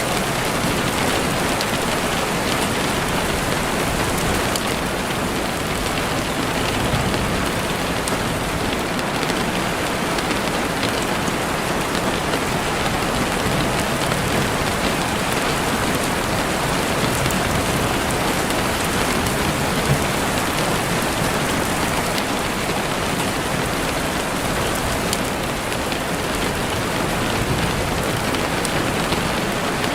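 Heavy rain beating steadily on a window pane: a dense, even hiss with no let-up.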